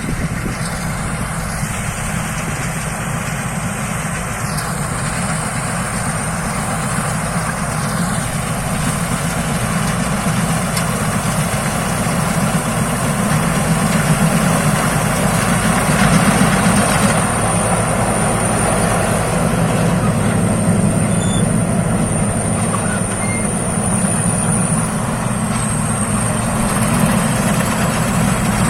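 Rice combine harvester's engine running steadily, with a thin high whine over the engine note; it grows slightly louder partway through.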